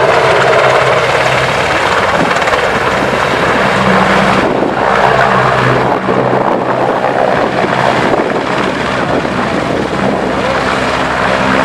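An aircraft flying low overhead: loud, steady engine noise with a low drone that strengthens about five seconds in.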